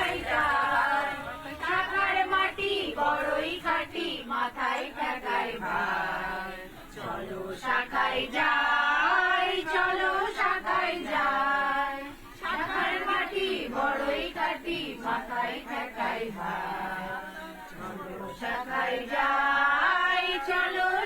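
A group of people singing together in chorus.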